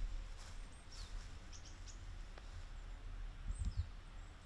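Bird calling outdoors: a few short, high chirps that slide downward, heard about a second in, again soon after, and near the end, over a steady low rumble.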